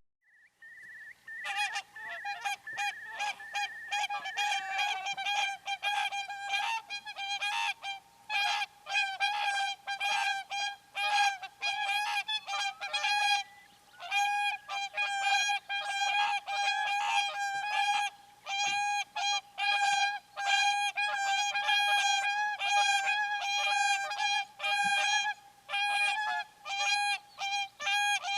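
Geese honking in a rapid, dense series of overlapping calls, starting about a second in and pausing briefly only once or twice.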